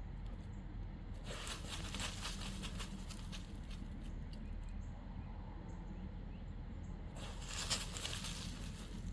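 A dog digging in soft dirt with its front paws, two spells of rapid scratching and scuffing with bits of soil pattering down.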